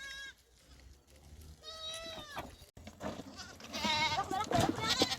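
Domestic goats bleating: one call tails off at the start, a clear bleat comes about two seconds in, and several overlapping bleats follow near the end.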